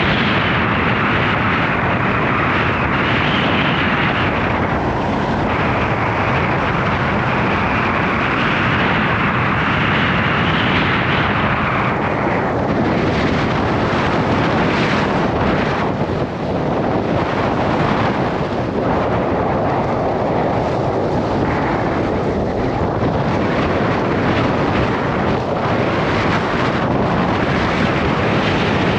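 Gale-force wind buffeting the microphone: a loud, steady rumbling roar of wind noise with no let-up.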